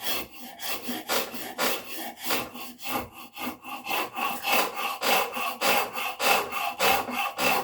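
A hand tool is worked back and forth against a wooden handle blank to shape it round. The rasping strokes come in a steady rhythm of about two to three a second.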